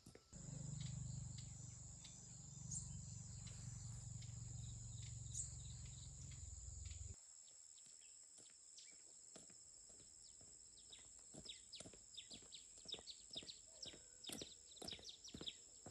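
Insects chirring in a steady high tone. A low hum runs under them for about the first seven seconds and stops abruptly. In the second half a run of light taps grows quicker and denser toward the end.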